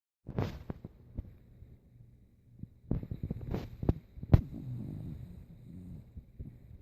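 An old dog snoring in its sleep, a rasping, saw-like snore in a few drawn-out breaths, the longest near the end. Several short sharp clicks fall between the breaths.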